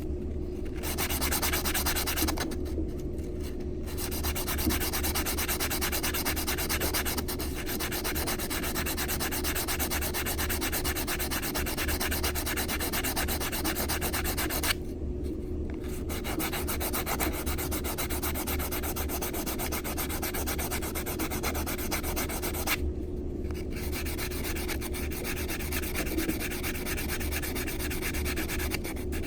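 Metal coin ring edge sanded on a nail file board: a steady, scratchy rubbing that smooths the rough cut edge. The strokes stop for a second or so about two and a half seconds in, again about fifteen seconds in, and again about twenty-three seconds in.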